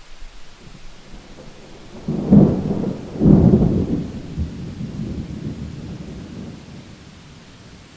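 Thunder during a rainstorm: a sudden clap about two seconds in, a second, stronger peak a second later, then a low rumble that dies away over the next few seconds. Steady rain hiss underneath.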